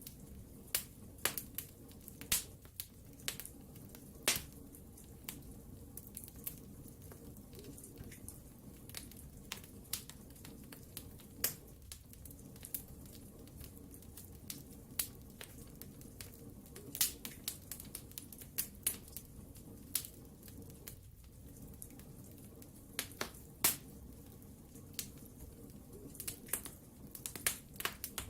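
Wood fire crackling in a fireplace: irregular sharp pops and snaps, some louder than others, over a steady low noise of the burning logs.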